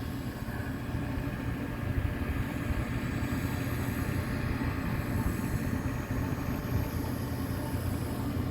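Steady low rumble and hum of running machinery.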